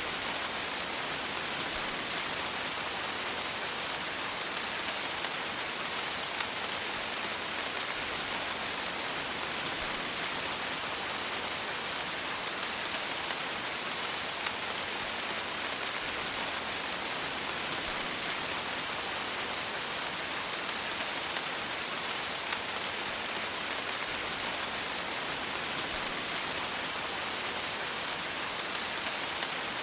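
Steady rain falling, a dense even hiss of raindrops pattering on a surface.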